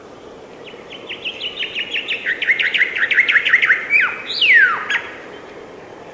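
A songbird sings one song: a fast run of repeated chirps that grows louder over about three seconds, ending in a sharp downward-sweeping note.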